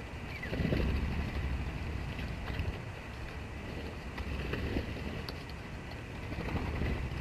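Sparrows chirping faintly in short, scattered calls over a low, uneven rumble that swells about a second in.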